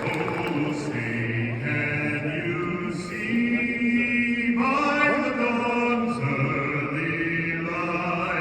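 A man singing a national anthem solo, holding long notes.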